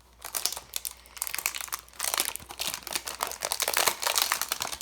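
Plastic wrapping crinkling and crackling as a baseball trading-card blaster box is opened by hand; the crackling is sparse for the first second or so and then thick and continuous.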